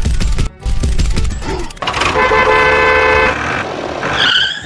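Vehicle horn honking once, a steady honk of about a second and a half starting about two seconds in, after heavy low rumbling; a short wavering tone sounds near the end.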